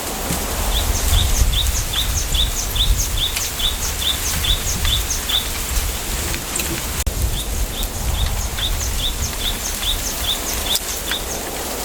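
A small bird calling a short, sharp, falling high note over and over, about two or three times a second, in two runs with a pause in the middle. Beneath it is a steady low rumble of wind through the bamboo forest.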